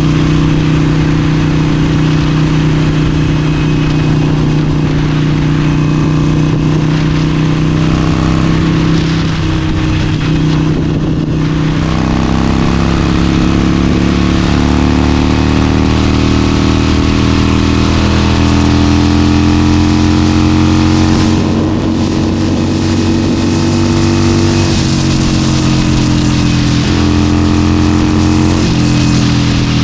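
Harley-Davidson Forty-Eight's 1200 cc air-cooled V-twin running at highway speed, with wind noise. The engine pitch dips about a third of the way in, climbs steadily for several seconds as it accelerates, then drops and settles.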